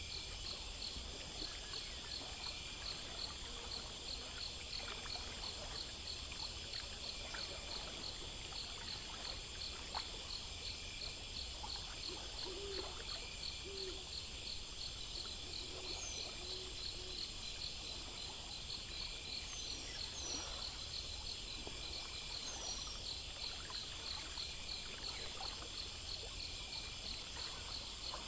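Night insect chorus of crickets chirping in a steady, regular rhythm, about two or three chirps a second, with a continuous higher trill above, over a low steady rumble.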